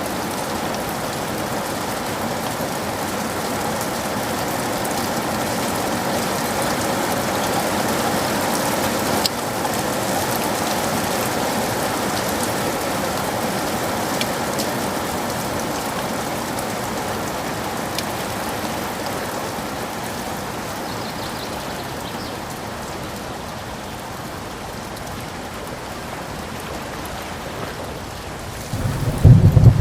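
Steady heavy rainfall, an even hiss with scattered drop ticks that swells a little and then eases. About a second before the end a loud low thunder rumble breaks in.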